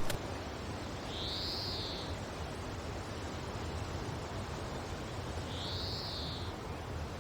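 Steady wind noise of a blizzard. Two high calls rise and fall over about a second each, about four seconds apart.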